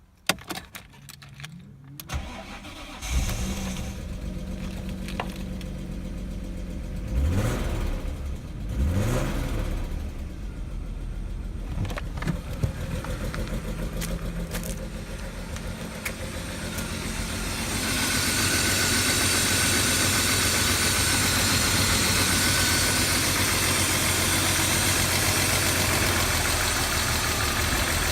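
BMW E39 2.5i inline-six engine (code 256S3) started: it catches about two to three seconds in and settles to idle. It is revved briefly twice shortly after, then runs steadily, louder and with more hiss in the last third.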